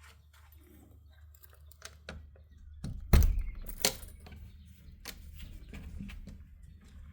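Irregular rattling and clicking, with a loud knock about three seconds in and a sharper one just under a second later.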